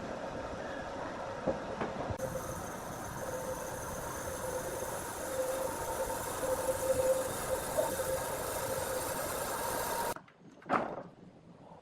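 Sawmill machinery running steadily with a constant hum, cutting off abruptly near the end; a single sharp knock follows.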